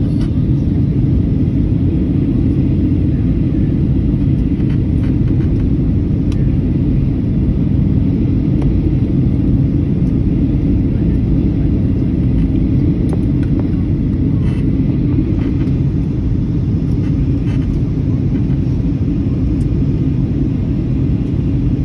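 Airliner cabin noise: the steady low rumble of the jet engines and rushing air heard from inside the passenger cabin, with a few faint small clicks.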